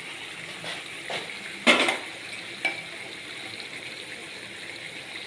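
Chicken pieces frying in oil with onion and spices in a pan, a steady sizzle. A spoon scrapes and knocks against the pan a few times as it is stirred, loudest a little under two seconds in.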